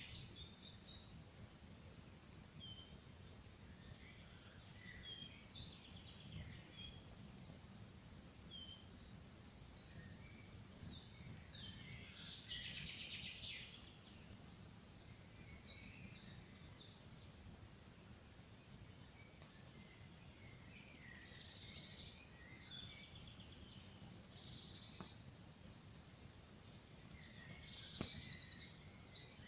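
Several songbirds singing in a forest, a dense mix of short chirps and trills with louder bursts about twelve seconds in and near the end, over a low steady rumble. A couple of faint snaps near the end, like a campfire crackling.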